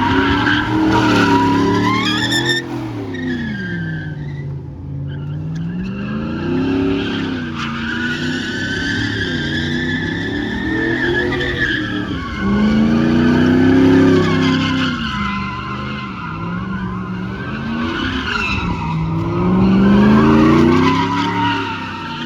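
A truck spinning its tires: the engine revs up and falls back again and again, every few seconds, under a wavering tire squeal.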